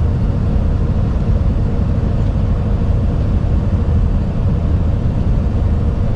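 Truck driving down the highway: steady engine and road rumble heard from inside the cab, with a faint constant hum over it.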